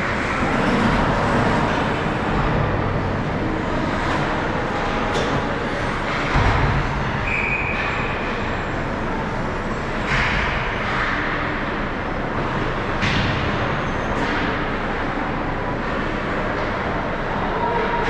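Ice hockey game sound in an arena: a steady wash of skates on ice and crowd noise, broken by sharp clacks and knocks of sticks and puck, a few of them louder.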